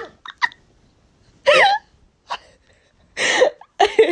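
A person laughing hard in short hiccuping gasps and a squeal, a few separate bursts with pauses between them.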